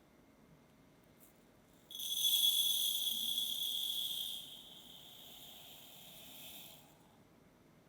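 Tiny sugar-pearl sprinkles rattling as they are shaken or poured from a small container: a sudden high-pitched rattle starting about two seconds in, loud for a couple of seconds, then softer before stopping near the end.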